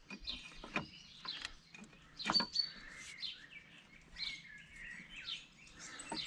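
Small birds chirping and calling repeatedly, with a few sharp knocks or clinks of work, the loudest about two and a half seconds in.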